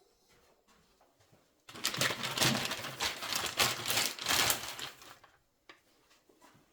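A burst of rapid mechanical rattling, starting a couple of seconds in and lasting about three and a half seconds, then a couple of faint clicks.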